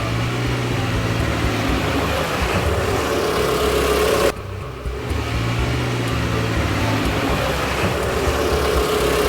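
Motor vehicle engine running steadily, with a short break about four seconds in before the same engine sound starts over.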